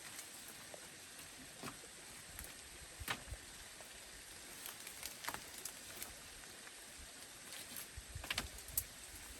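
Faint steady hiss of rain, with scattered light knocks and taps and a louder cluster of them near the end.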